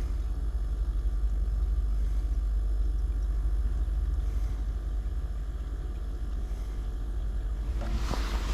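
Refrigerator compressor humming steadily as it runs, on a fridge whose upper compartment isn't cooling. A brief rustle near the end.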